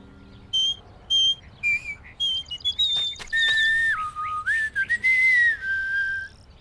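A whistled tune: a few short high notes, then longer held notes stepping down and back up.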